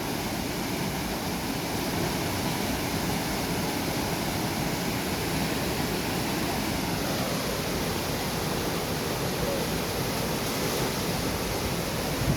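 Fast-flowing river water rushing steadily, the even noise of a small mountain river running high in monsoon flood.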